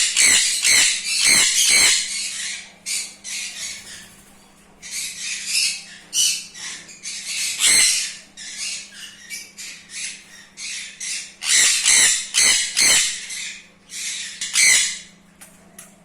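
Colony of sun conures (red-split birds) screeching: loud, harsh calls in quick runs with short lulls between, over a faint steady hum.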